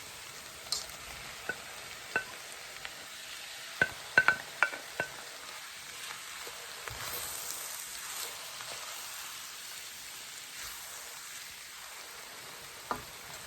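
Steady sizzle of the pot-pie filling cooking in the pot while it is stirred, with a spoon knocking against the pot several times, most of them around four to five seconds in.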